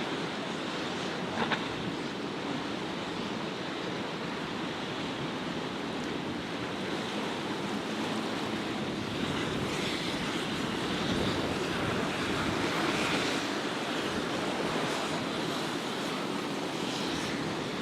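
Ocean waves breaking and rushing at an inlet, with wind buffeting the microphone; the surf swells louder for a few seconds midway, and there is a short click about a second and a half in.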